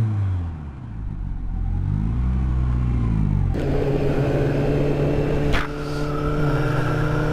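Vehicle engines in traffic. First an engine winds down, then another rises and falls in pitch as it revs or passes. After an abrupt change a little over halfway in, an engine drones at a steady pitch, with one sharp click in the middle.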